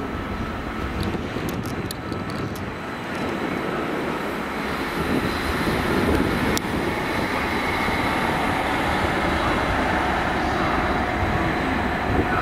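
Stadler FLIRT electric multiple unit running along the platform road, its wheel and running noise growing louder from about four seconds in, with a steady high whine over it.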